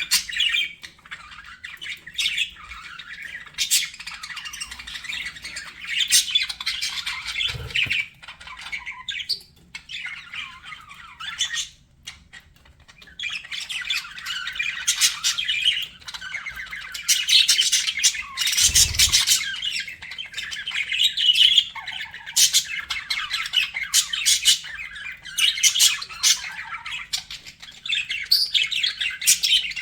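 Budgerigars chattering and warbling, with sharp chirps and squawks coming in busy bursts and a short quieter spell about a third of the way in. Two soft low thuds are heard, one about a quarter of the way in and one near the middle.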